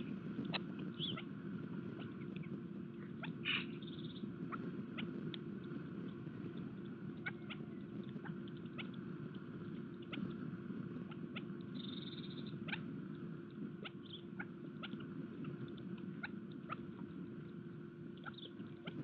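Irregular light taps and clicks of birds pecking and feeding at a garden feeder, with a few brief high chirps, over a steady low hum.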